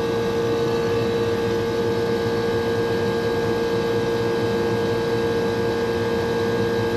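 Rooftop air-conditioning unit running, with one compressor and its fans going: a steady mechanical hum with a constant mid-pitched tone.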